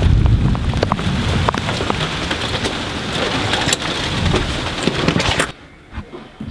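Rain falling hard, with many sharp close drop hits and a low rumble under it; it cuts off abruptly about five and a half seconds in.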